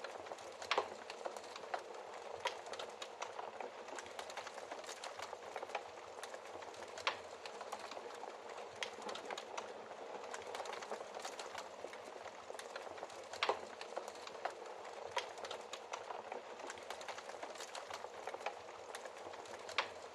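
Wood fire crackling in a fireplace: a steady soft hiss of burning with frequent small crackles and a few louder sharp pops at irregular intervals.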